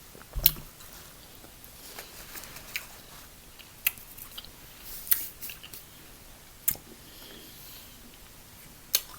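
Close-miked eating: chewing with sharp cracks and clicks, about five of them spread through, the loudest about half a second in. The sharp ones are crab-leg shells being cracked and handled.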